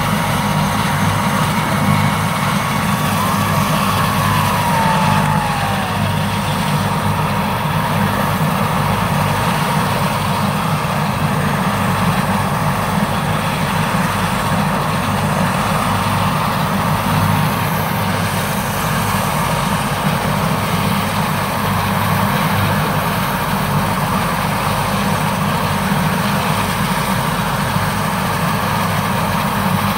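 Medical helicopter running steadily, its turbine and rotor making a loud, even engine noise.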